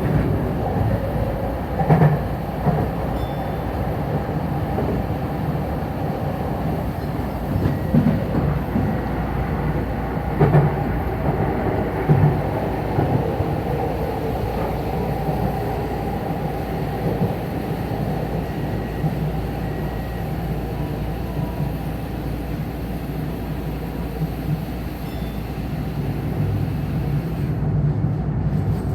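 Tokyu Den-en-toshi Line electric commuter train running on the track, a steady rumble of wheels and running gear, with a few louder knocks scattered through it.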